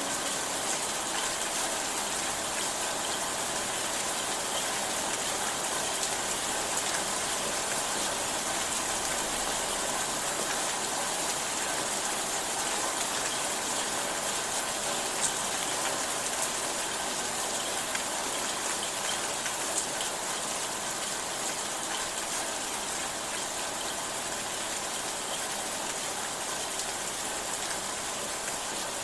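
Steady rain falling, an even hiss with the odd single drop ticking through it.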